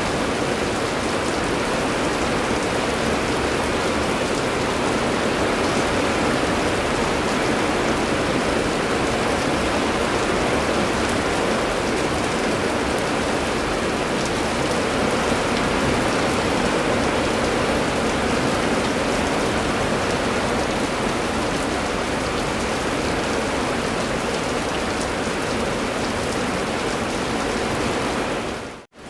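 Steady heavy rain, an even dense hiss of falling drops. It drops out for a moment near the end and comes back slightly quieter.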